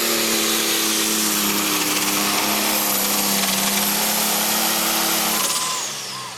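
Super stock pulling tractor's turbocharged diesel engine running flat out at full throttle under load of the sled. About five and a half seconds in the throttle is cut: the engine drops off and a high turbo whine falls away.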